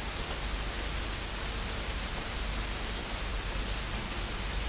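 Steady hiss of static noise, even and unchanging.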